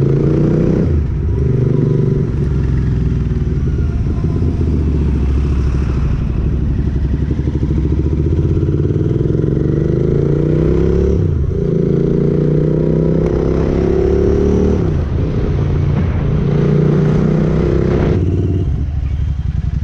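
Motorcycle engine under way, accelerating: its pitch climbs and then drops sharply at each upshift, several times over.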